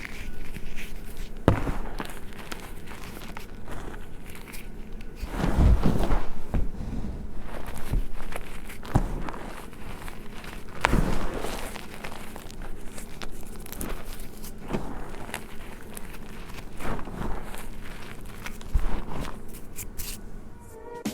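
Gym chalk being crushed: irregular crisp crunches and crumbling, with a heavier run of crunching around six seconds in.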